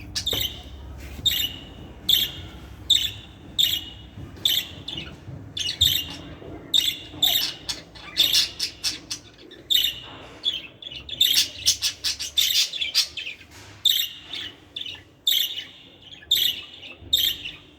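Budgerigar chirping: short, high chirps repeated about once a second, with quicker runs of chirps around the middle.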